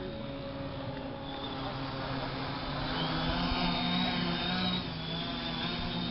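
Multirotor drone's electric motors and propellers running with a steady hum and a thin high whine, rising in pitch and loudness about three seconds in as it throttles up.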